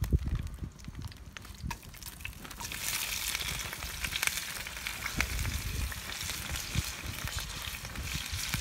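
Food tipped into hot oil in a frying pan starts to sizzle about three seconds in, then keeps frying with a steady sizzle.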